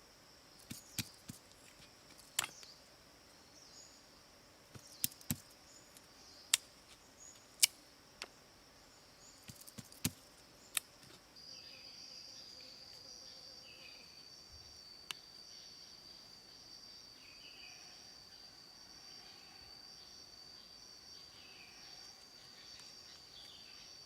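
Steady high-pitched insect drone, such as crickets or cicadas, in jungle ambience. A dozen or so sharp clicks and knocks come in the first half, like sticks being snapped or tapped. From about eleven seconds in, a single high insect tone grows steadier and louder, with faint chirps over it.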